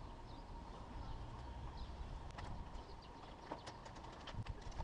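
Birds chirping faintly over a low outdoor rumble, with sharp light clicks that come more and more often from about halfway through.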